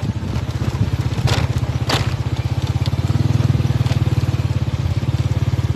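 Motorcycle engine running steadily with a fast, even low pulse, with two short scraping crackles about one and two seconds in.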